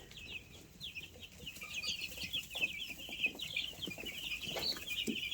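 A flock of two-week-old Freedom Ranger chicks peeping, with many short high chirps overlapping continuously.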